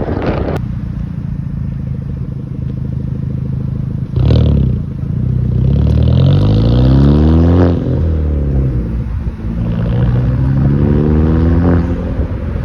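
Exhaust of a Hyundai Genesis Coupe 2.0T turbocharged four-cylinder through a Tomei titanium single exhaust. It runs steadily, then, about four seconds in, pulls hard with the pitch climbing for about three seconds, drops back, and climbs again for about two seconds before dropping near the end.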